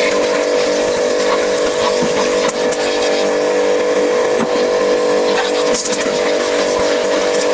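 A motor running steadily at constant speed with an even hum, with a few faint knocks partway through.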